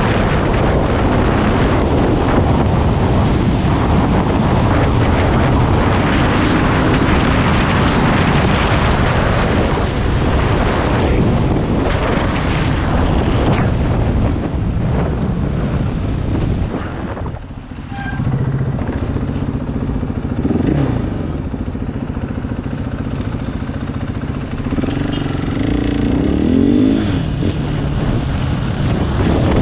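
KTM 500 EXC four-stroke single-cylinder dirt bike engine running under way, with heavy wind noise on the microphone. About 17 seconds in the sound eases off briefly; after that the engine note is clearer and the revs rise several times.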